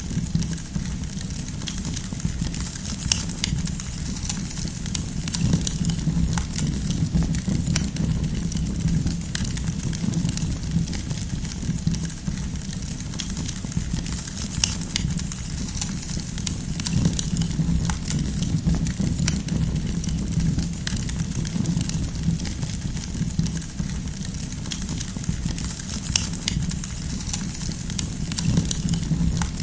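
Campfire of burning firewood crackling, with frequent small sharp snaps and pops scattered irregularly over a steady low rumble.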